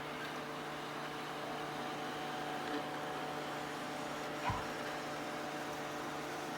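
Robot vacuum cleaner running, its motor and suction fan giving a steady whirring hum with a light knock about four and a half seconds in.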